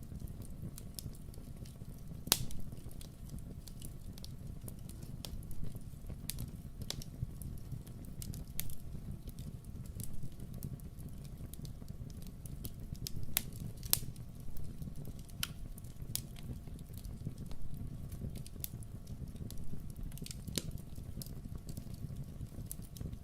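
Fireplace fire crackling: irregular sharp pops and snaps over a steady low rumble, with the loudest pops about two seconds in and about fourteen seconds in.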